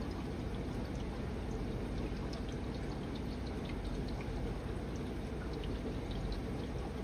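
Steady pouring and trickling of water in an aquarium filtration system, with many small drips and splashes throughout.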